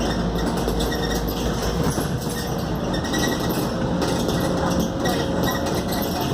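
Scania K280UD double-decker bus on the move, heard from inside: the diesel engine running, a steady drivetrain hum and road noise.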